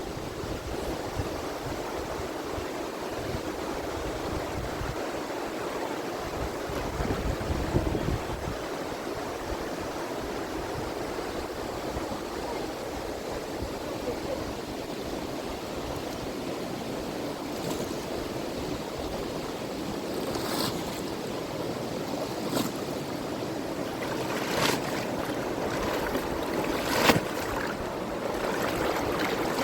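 Steady rushing of a wild river, with wind on the microphone. In the last third, a few short sharp sounds cut through, the loudest about three seconds before the end.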